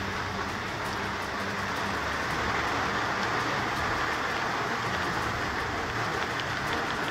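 Torrential downpour: a steady, dense hiss of heavy rain, with scattered faint taps of drops.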